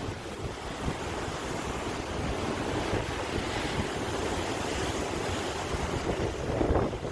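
Sea waves breaking and washing on a shore, a steady rush with a stronger surge near the end, and wind buffeting the microphone.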